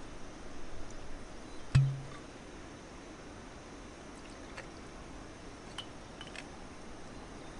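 A single sharp knock about two seconds in, followed by a brief low hum, over a steady background hiss with a few faint ticks.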